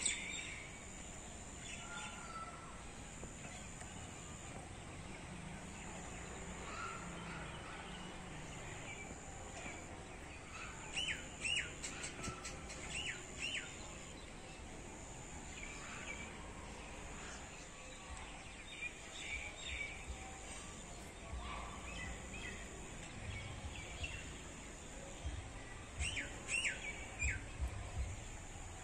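Birds chirping, with bursts of quick repeated calls about ten seconds in and again near the end, over a steady background hiss. A faint high thin tone pulses on and off every couple of seconds behind them.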